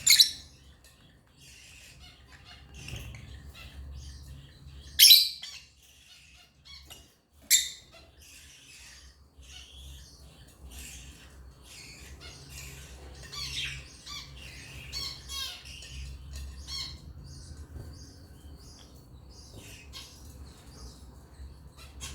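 African lovebirds chattering with short high chirps, broken by three loud, sharp squawks: one at the very start, one about five seconds in and one about seven and a half seconds in. The chatter is busiest in the middle and thins out over the last few seconds.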